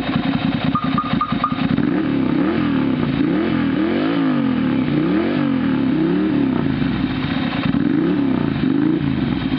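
Ducati Monster 696's air-cooled L-twin engine, breathing through a Leo Vince GP aftermarket exhaust, idling with a choppy beat and then revved in a series of quick throttle blips, the revs rising and falling about seven times before dropping back toward idle near the end.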